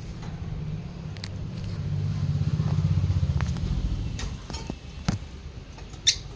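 A motor vehicle's low engine rumble swells to a peak about halfway through and fades again, with a few short sharp clicks on top, the loudest near the end.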